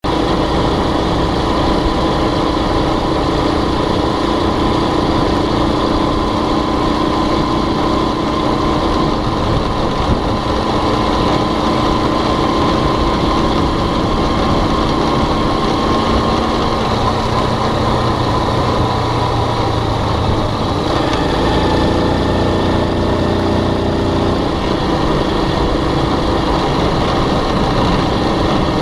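Small motorbike engine running steadily as the bike rides along, with the noise of the ride over it. The engine note shifts in pitch around the middle of the stretch, as the engine speed changes.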